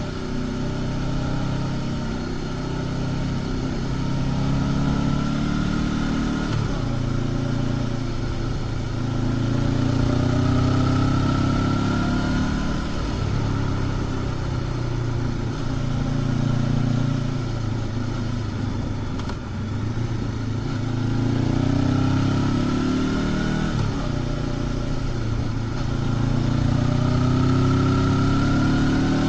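Honda CB500X's parallel-twin engine through its stock exhaust, pulling under throttle with its pitch climbing and dropping several times, as the rider accelerates, shifts and eases off.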